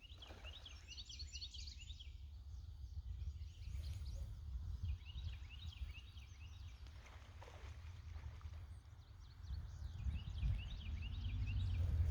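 A bird singing in short phrases of quick, high, repeated chirps, three phrases a few seconds apart, over a steady low rumble that grows louder near the end.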